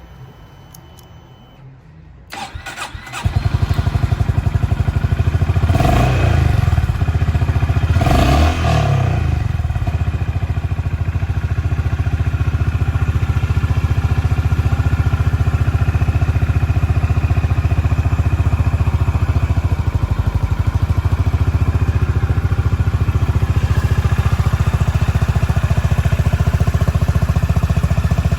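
Honda GB350's air-cooled single-cylinder engine started on the electric starter: a brief crank about two seconds in, then it catches. It is blipped twice, a few seconds apart, then settles into a steady, even idle.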